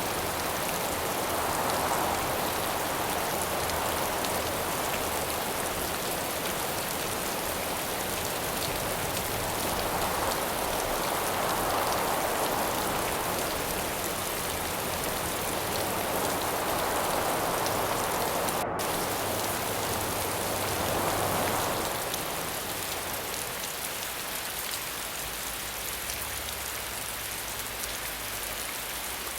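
Steady rain hissing, with wind rising and falling in several long gusts; the gusts die away about two-thirds of the way through, leaving the rain alone.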